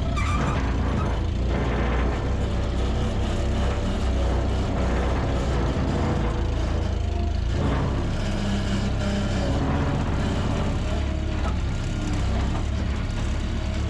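Worn-out, straight-piped diesel truck engine running steadily with a deep, continuous drone.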